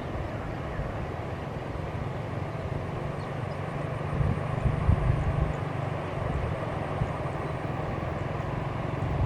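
Low, steady rumble of a passing train, with a few louder low thumps about four to five seconds in.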